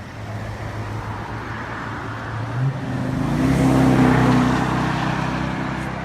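A motor vehicle passing on the highway, its engine and tyre noise building to a peak about four seconds in and then fading away.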